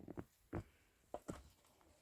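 A few short, soft knocks, five or so in under two seconds, irregularly spaced.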